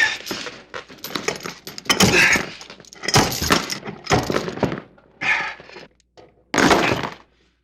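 A horror sound effect of repeated crashes and thuds, like things being knocked over and smashed. It comes in about seven loud bursts over some seven seconds, the last one near the end.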